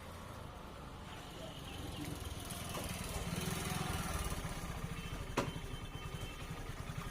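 A small engine running with a low, even pulse, swelling louder to a peak and then fading. There is a single sharp click near the end.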